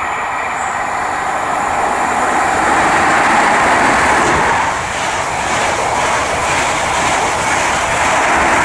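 GWR Class 43 high-speed train running through the station at speed: the diesel power car's engine and the rush of wheels on rail, building to its loudest about three seconds in as the power car passes, then a steady rush as the coaches go by.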